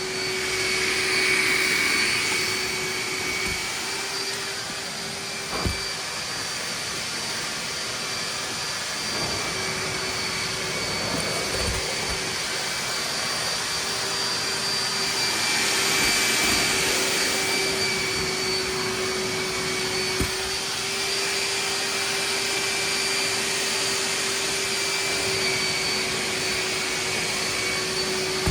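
Hoover wet/dry vac running with a steady motor whine and rushing air as it sucks water from a saturated rug. The sound swells louder twice, near the start and around the middle, and there is a sharp click about six seconds in.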